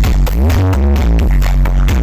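Loud electronic dance music blasting from a large carnival sound-system rig, with heavy bass and a rising synth sweep that repeats about every two seconds.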